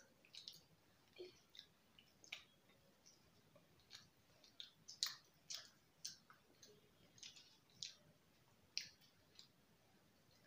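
Faint, irregular wet clicks of mouths chewing soft food (french fries and a sandwich), with the sharpest click about halfway through.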